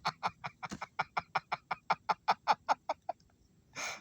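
A person laughing in rapid, even bursts, about five a second, each falling in pitch. The laughter fades and stops, and near the end comes a sharp breath in.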